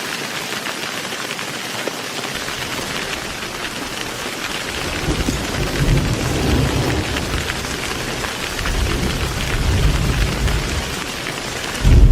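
Heavy rain falling steadily, with thunder rumbling twice in the second half and a loud thunderclap breaking in at the very end.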